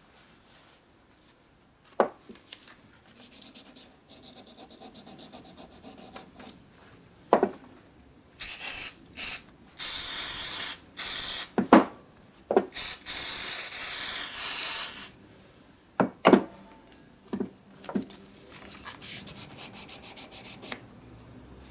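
Hand rubbing and scrubbing strokes on an old benchtop lathe's metal parts during rust cleaning, fast and rhythmic, with a few sharp knocks. Several loud hissing bursts come in the middle, the longest lasting about two seconds.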